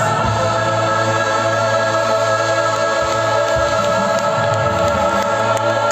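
Music: a vocal group singing long held chords over a steady low bass note.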